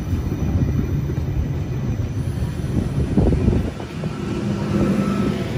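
Sydney Trains double-deck electric train rolling past along the platform: a steady low rumble of wheels and running gear. A low hum joins in about four seconds in.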